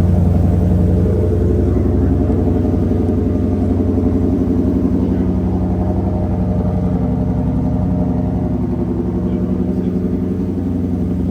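Ford Shelby GT500-H's supercharged 5.2-litre V8 idling steadily shortly after a cold start, easing slightly quieter toward the end.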